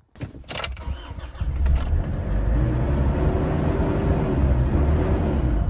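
Bobcat skid-steer's diesel engine cranking on jump leads from a flat battery, catching after about a second and a half and settling into a steady run.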